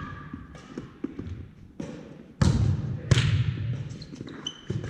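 Strikes landing during a fast hitting drill: scattered light knocks, then two loud, heavy thumps about halfway through, with short squeaks near the end.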